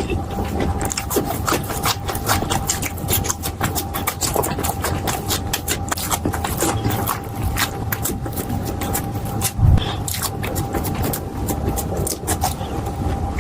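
Close-miked eating sounds: a steady run of crunching and chewing clicks, with a low thump about ten seconds in.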